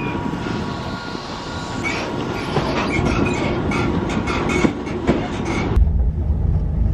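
Sleeper train on the move, its wheels clattering and briefly squealing on the rails. About six seconds in the sound cuts abruptly to a low steady rumble.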